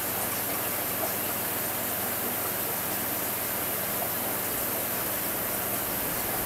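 Heavy typhoon rain pouring down as a dense, steady hiss.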